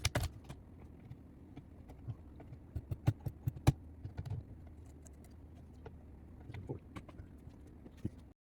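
Irregular clicks and light knocks of hands handling the key machine's parts, with a few sharper taps about three seconds in.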